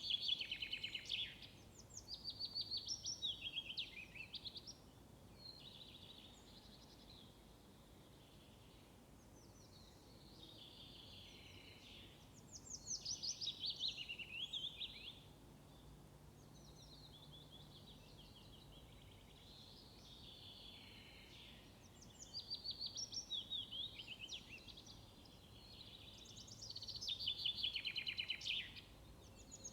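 Songbirds singing: short, fast trilling phrases come every few seconds, several of them falling in pitch, over a faint steady background hiss.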